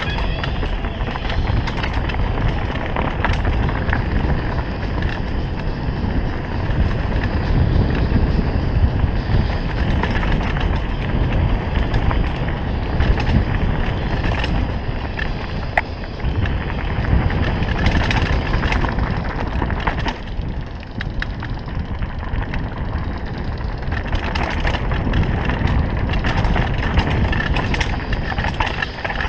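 Mountain bike riding downhill over a dirt trail: a steady rush of tyre and ride noise, heaviest in the low end, with frequent sharp clicks and rattles from the bike over rough ground.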